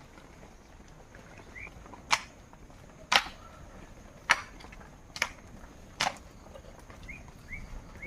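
Five sharp tool strikes on wood or bamboo, about a second apart, as during shelter building. Short rising chirps, like a bird's, come before and after the strikes.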